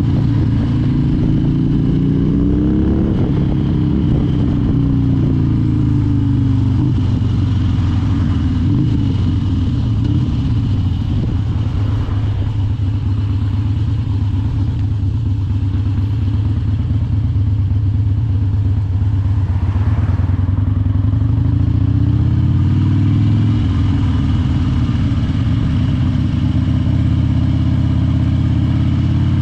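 Harley-Davidson Dyna's V-twin engine running on the move, its pitch climbing about three seconds in, easing back, and climbing again some twenty seconds in as the throttle is opened and closed.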